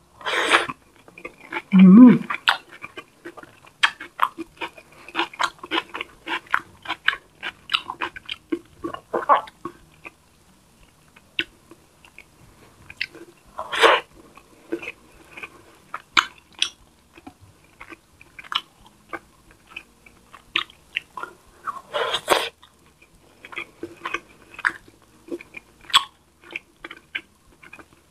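Close-miked chewing of a mouthful of rice and coconut-milk-stewed tilapia: steady wet lip smacks and mouth clicks, a few of them louder and longer.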